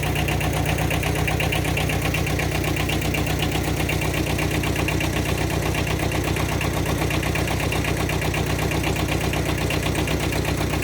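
An engine idling steadily, with an even, rapid beat.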